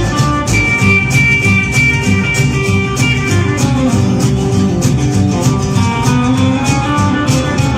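A live band plays an instrumental break in a country/rockabilly song: guitar over a steady, driving beat, with a long held high note near the start.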